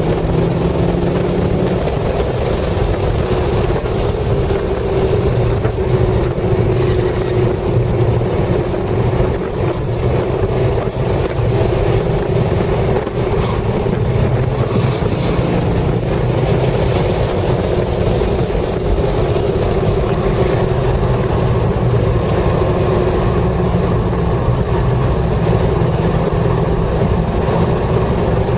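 Chevrolet Corvette C6 Z06's 7.0-litre LS7 V8 running hard at track speed, heard from inside the cabin with wind noise. The engine note rises and falls as the revs change through the corners.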